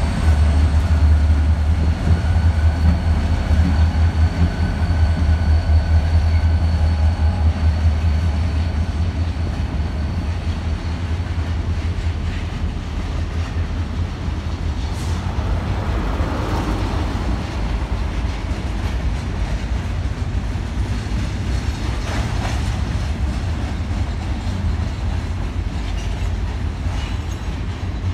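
Union Pacific diesel-electric locomotives rumbling past, heaviest in the first several seconds. They are followed by a long string of double-stack container well cars rolling by with steady wheel-on-rail noise.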